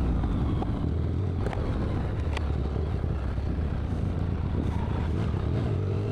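Motorcycle engine running at a steady cruising speed with a low drone, under wind and road noise.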